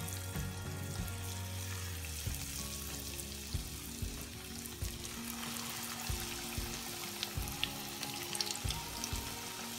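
Batter-coated chicken pieces frying in hot sunflower oil: a steady sizzle with frequent small crackles and pops as the pieces are added one at a time.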